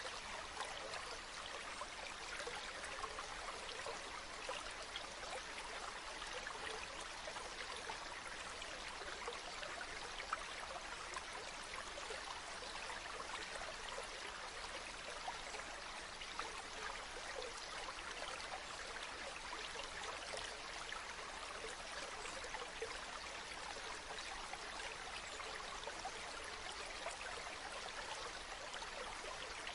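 Running water flowing steadily over rocks, a constant splashing rush with fine droplet spatter and no pauses.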